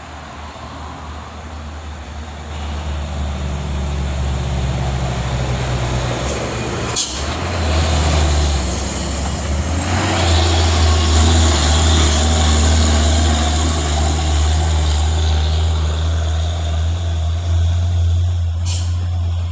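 Heavy diesel truck engine labouring up a steep climb, a steady low drone that grows louder as the truck draws near. A sharp click about seven seconds in and a short hiss near the end.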